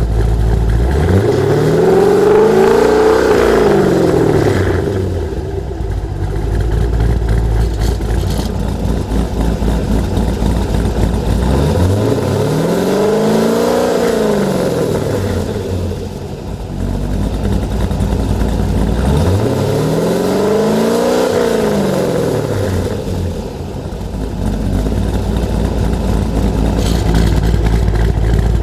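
C5 Corvette V8 through a B&B Fusion exhaust, revved three times from idle. Each rev climbs and falls back over about four seconds, and the engine settles to a steady low idle in between.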